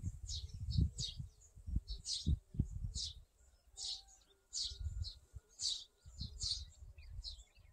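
A small bird calling over and over: about nine short, high chirps, roughly one a second, each a quick lower note followed by a higher one. An uneven low rumble runs underneath.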